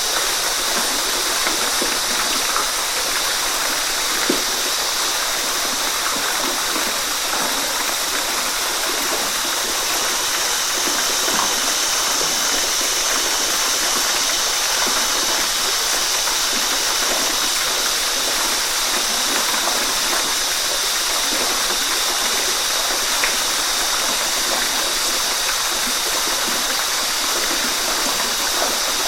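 Waterfall rushing steadily, an even hiss of falling water with the odd faint splash.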